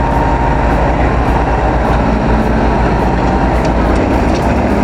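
Heavy machinery running: a loud, steady mechanical rumble.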